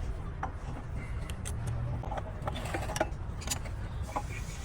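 Scraping and scattered light clicks and knocks of hand work on workshop parts, over a low steady hum.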